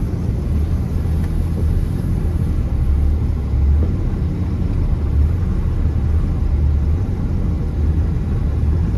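Ford Ranger pickup driving through snow: a steady low rumble of engine and tyres, with no change in pace.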